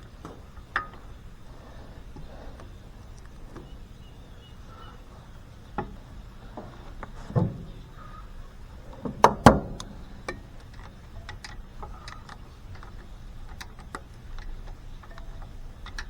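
Scattered light metal clicks and ticks of tools and parts as a magneto is lined up and fitted onto an International Harvester LB engine, with a louder knock about seven seconds in and two more about nine seconds in.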